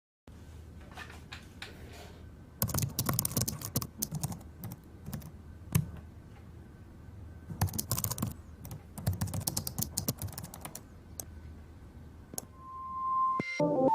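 Bursts of light clicking and clattering, like small hard parts being handled, over a low steady hum. A musical tone comes in near the end.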